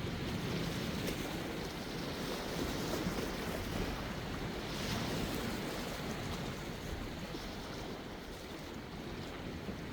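Sea waves washing ashore in a steady surf wash, with some wind on the microphone; the wash swells slightly about halfway through.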